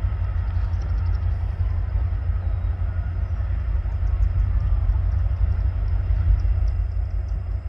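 Low, steady rumble of Union Pacific diesel locomotives pulling a train slowly.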